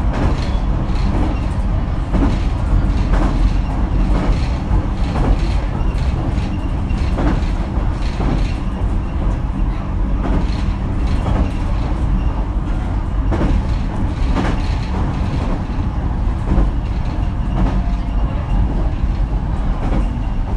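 Running sound of a JR Kyushu BEC819-series battery-electric train, heard from inside the car: a steady low rumble with wheel clacks over rail joints every second or two.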